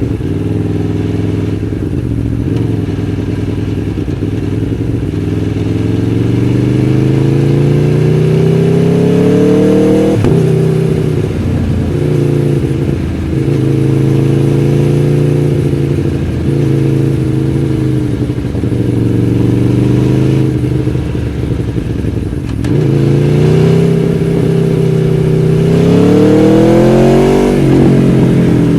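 Aprilia Tuono V4 1100 Factory's V4 engine under way: it rises slowly in pitch, drops suddenly about ten seconds in as a gear is changed, holds a steady pitch, then climbs again and drops once more near the end.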